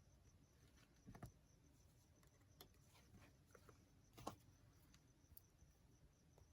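Near silence with a few faint taps and small handling noises from paper-craft work at a table, the two clearest knocks about a second in and about four seconds in.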